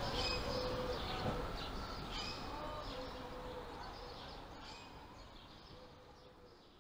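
Birds chirping over a hiss of outdoor background noise, the whole sound fading out steadily.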